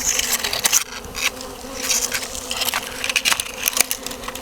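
Honey bee swarm buzzing, a steady hum, with many short clicks and crackles over it.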